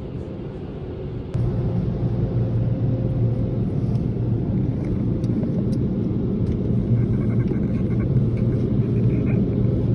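Automatic car wash machinery heard from inside the car: a steady low rumble that suddenly gets louder about a second in, with a high hiss over it.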